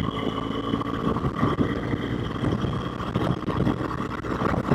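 BMW R1200GS boxer-twin engine running steadily at road speed, heard from the rider's helmet with wind noise over the microphone.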